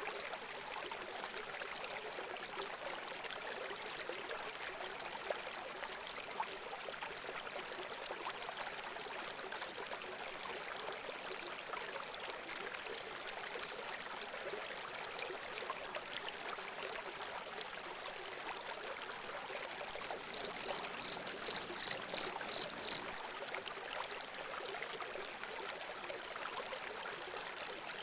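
Steady running water, with a bird calling a quick series of about ten sharp, high chirps about two-thirds of the way in.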